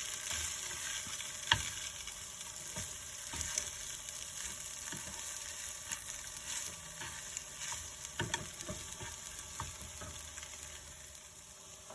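Instant noodles sizzling in a frying pan as they are stirred, with a utensil scraping and knocking against the pan now and then; one sharp knock comes about a second and a half in.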